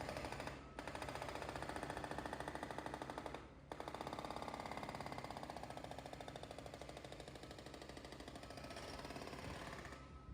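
Hydraulic breaker on a Kubota U48-4 compact excavator hammering in a rapid, even stream of blows, with the excavator's engine running underneath. The hammering breaks off briefly twice, about half a second in and about three and a half seconds in, and stops near the end.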